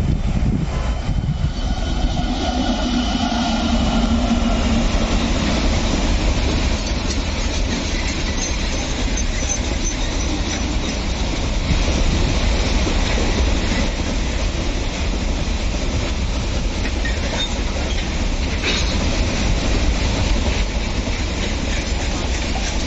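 Indian Railways train passing close by at speed, its wheels clattering over the rail joints in a steady rumble. A tone falls slightly in pitch over the first few seconds as the locomotive goes by.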